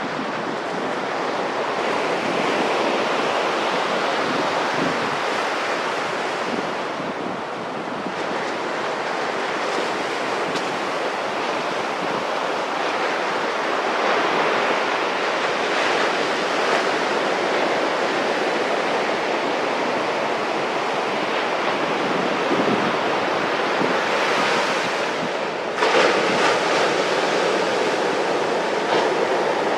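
Pacific Ocean surf washing onto a beach: a steady rush of breaking waves that swells and eases, with wind buffeting the microphone. Near the end the sound jumps abruptly louder.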